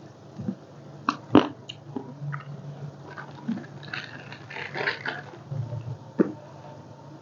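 Close-up eating sounds: chewing, with several sharp cracks and clicks from biting into blue swimming crab shell. The loudest crack comes about a second and a half in, and another near the end.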